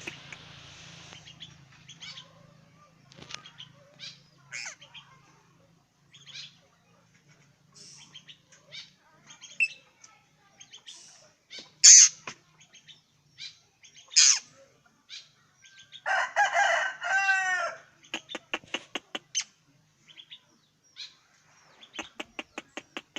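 A fowl-like bird (burung tanau) flapping and calling: scattered short sharp sounds with the loudest about twelve seconds in, a burst of harsh repeated calls about sixteen seconds in, and quick runs of clicking notes around eighteen and twenty-two seconds.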